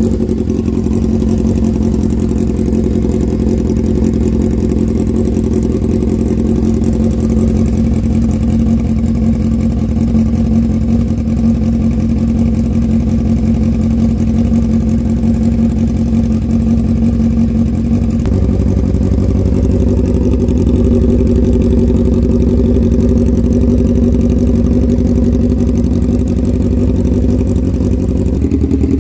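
Honda CBR600RR PC37 inline-four engine running with no muffler fitted, idling loud and steady. Its pitch shifts slightly a few times.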